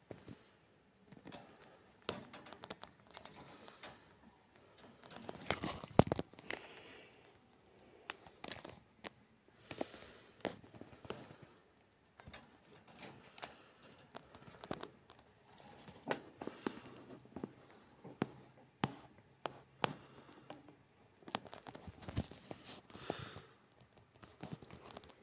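Canary moving about its cage: irregular light clicks, scratches and rustles, with one louder knock about six seconds in.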